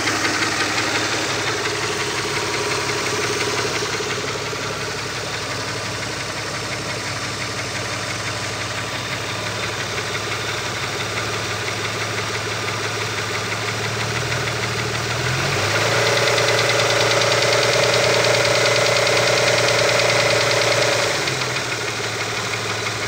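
Opel Omega B V6 engine idling with a knock, which the owner traces to the exhaust camshaft on the second cylinder head. About two-thirds of the way through, the revs rise and are held for about five seconds, then drop back to idle.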